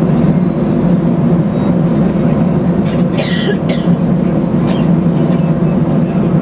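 Steady, loud rumble of jet engine and airframe noise inside an Airbus A319's passenger cabin, with a brief hissing rattle about three seconds in.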